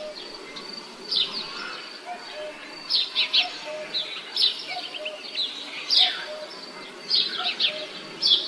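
Birds chirping, with short clusters of high calls repeating about every second and a half.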